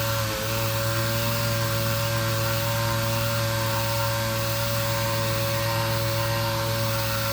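Sander running steadily on wood filler strips: a constant motor hum with a high hiss of sanding and dust extraction, briefly dipping about a third of a second in.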